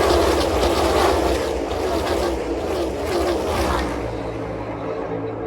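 Motor vehicle engine noise with a heavy wind or road rumble and several falling engine notes. It eases off about four seconds in to a quieter, steadier low hum.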